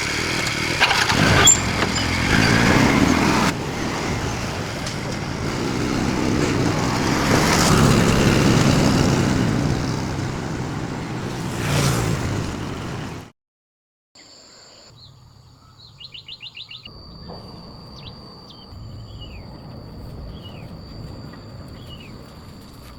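Loud steady rushing noise for about thirteen seconds, cut off suddenly; after a moment of silence, birds chirp with short calls and one quick trill over a steady high-pitched hum.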